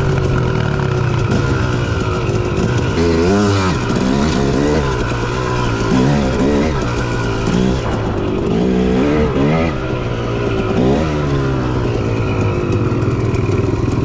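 Dirt bike engine revving up and down repeatedly as the throttle is worked on a trail, its pitch rising and falling about once a second.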